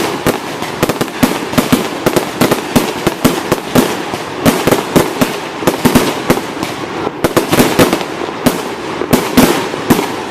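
Fireworks display, a dense barrage of bangs and crackling shell bursts going off in rapid, irregular succession.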